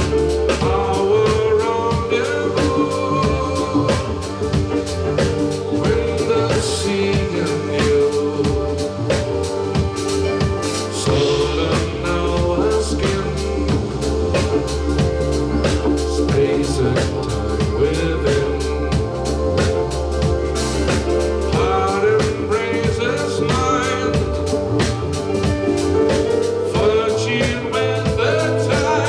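Live band playing, with a drum kit keeping a steady beat under bass and held melodic lines that now and then glide in pitch.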